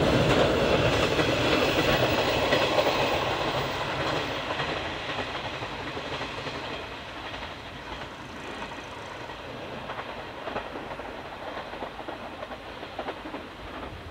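Chizu Express HOT3500-series diesel railcar running past with its wheels clicking over the rails. It grows fainter over the first half as it draws away.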